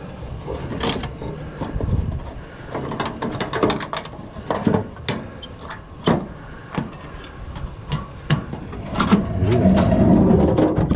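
Junk and scrap being rummaged through in a dumpster: a run of irregular knocks, clanks and rattles as items are moved and pulled out, with a louder stretch of scraping and shifting near the end.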